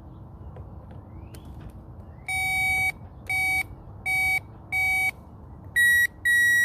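Electronic beeps: four short beeps at one pitch, followed near the end by two longer beeps at a slightly different pitch.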